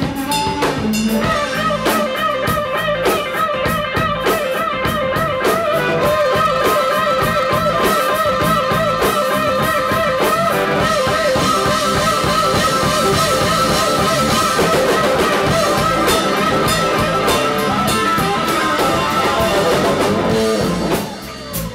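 Electric blues-rock band playing live: a lead electric guitar holds long, wavering notes with heavy vibrato over drum kit and bass. The band drops back briefly near the end.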